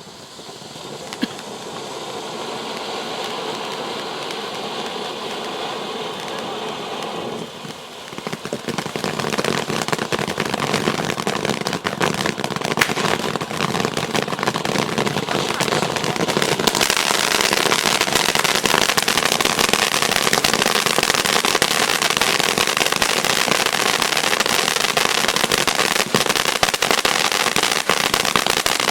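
Firework fountain (F2 'Carro Armato') burning: a steady hiss of sparks that builds up, dips briefly about eight seconds in, then grows louder with dense crackling and steps up again just past halfway.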